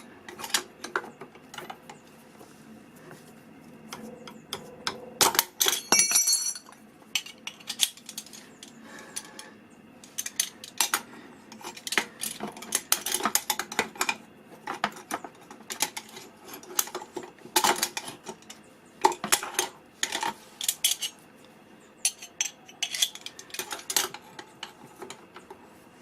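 Metal tool clicking and clinking against a motorcycle's notched chain-adjuster ring as it is levered round to change the chain tension, in irregular bursts, with a short metallic ring about six seconds in.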